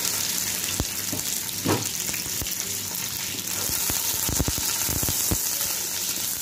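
Cut okra sizzling in hot oil in a nonstick pot: a steady frying hiss. A utensil knocks against the pot a few times, most of them in the second half.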